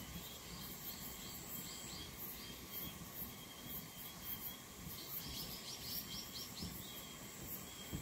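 A bird calling in two runs of quick, repeated falling notes, the second run faster. Under it run the steady high trill and pulsing chirps of insects.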